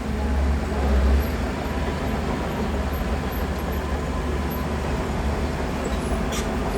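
Heavy diesel earthmoving machinery running steadily, a deep low rumble that swells briefly about a second in.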